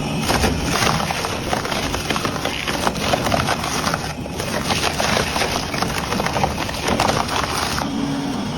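Industrial metal shredder crunching through scrap: a dense run of cracks and snaps over the machine's steady low hum, which comes through clearly near the end.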